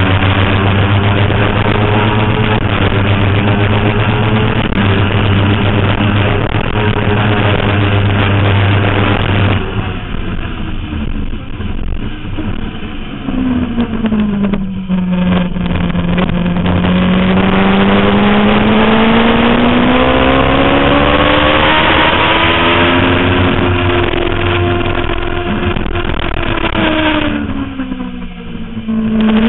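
Suzuki GSX-R 750 inline-four engine at high revs under throttle, with a rushing noise. About a third of the way in the engine note drops off sharply and falls, then climbs slowly as the bike accelerates again and holds high. Near the end it drops off once more before picking up.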